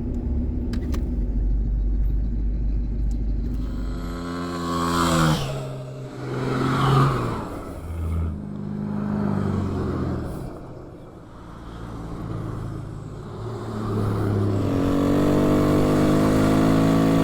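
Off-road vehicle engines on a dirt desert track: a steady low engine rumble, then engine notes rising and falling as vehicles move, and another engine building up steadily from about three quarters of the way in.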